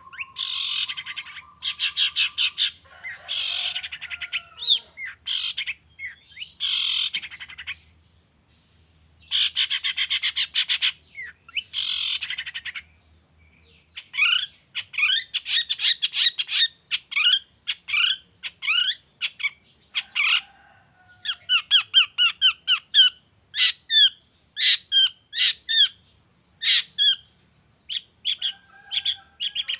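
Long-tailed shrike (cendet) singing: harsh, rasping bursts for the first half, then after a short pause a rapid run of short, sharp chattering notes, several a second, in broken series.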